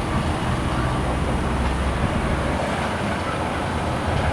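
Steady low engine rumble over a constant outdoor din, with no sharp events.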